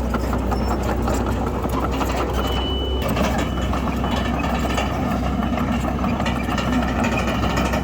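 Heavy diesel machinery running steadily, with a dense rattling clatter over a low engine hum. A brief high squeal comes about two and a half seconds in.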